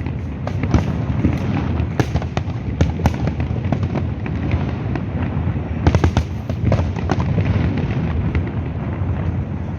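Aerial fireworks bursting continuously: a steady low rumble of explosions with many sharp bangs and pops on top, and a close cluster of louder bangs about six seconds in.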